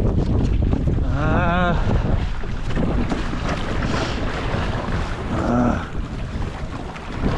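Wind buffeting the microphone over water and hull noise from a sailing kayak under way. Two brief wavering pitched sounds cut through, about a second in and again past five seconds.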